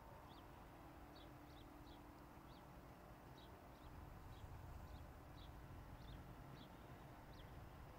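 Faint small-bird chirps, short high calls repeating about twice a second, over a low background rumble and a faint steady hum.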